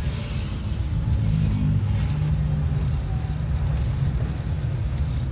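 Suzuki Carry 1000's engine running under way, heard from inside the cab, with tyre noise from a wet road. A steady low drone with a faint pitched engine note in the first couple of seconds.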